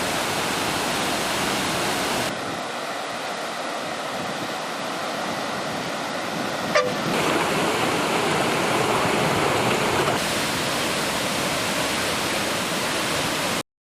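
Water rushing out of opened reservoir spill gates: a loud, steady rush of water that changes in tone about two, seven and ten seconds in, with a brief sharp sound about seven seconds in, and cuts off suddenly near the end.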